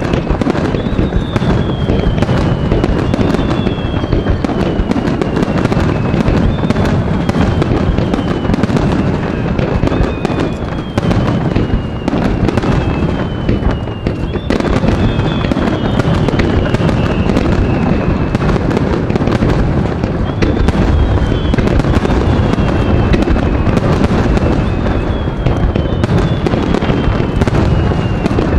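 Fireworks barrage: many shells bursting in quick succession, a continuous run of booms and crackle with no gaps. A high tone that falls in pitch comes round again every second or two.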